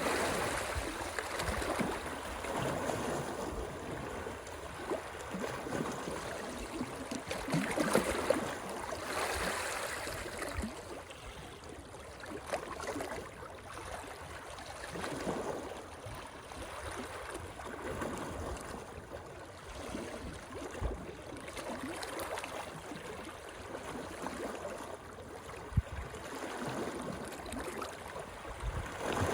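Moving water splashing and gurgling, swelling and easing every few seconds, with one brief thump a few seconds before the end.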